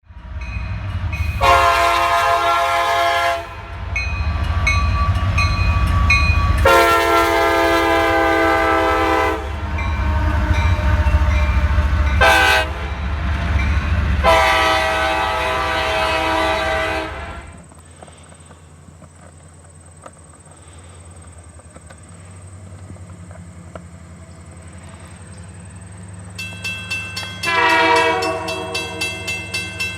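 Diesel locomotive air horn sounding the grade-crossing pattern, long, long, short, long, over the loud rumble of the train. The train noise then drops away, and near the end another horn blast falls in pitch as it passes.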